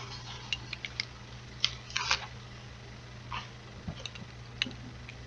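Plastic Lego Duplo bricks clicking and clacking as they are handled and stacked, a dozen or so sharp irregular clicks, over a steady low hum.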